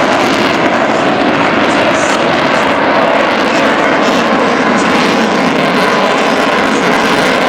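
Steady, loud jet noise from Blue Angels F/A-18E/F Super Hornets in flight.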